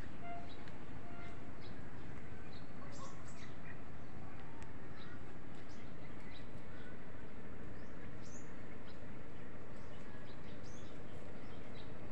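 Small birds chirping in short, scattered calls over steady background noise.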